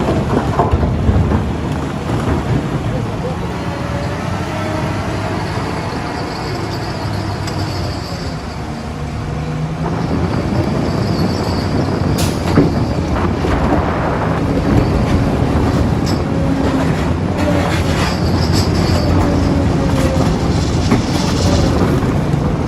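Diesel engine of a JCB 3DX backhoe loader running under load, its pitch rising and falling as the machine works. There is an occasional metallic clank, the sharpest about twelve seconds in.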